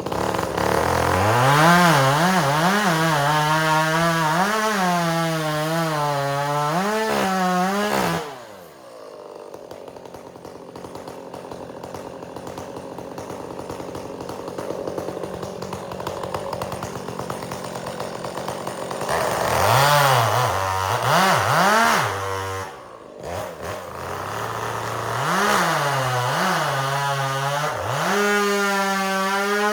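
Chainsaw bucking firewood, its engine revving up and down through a cut, then dropping to a quieter idle about eight seconds in. About twenty seconds in it revs hard again for further cuts, with a short drop back near the middle of that run.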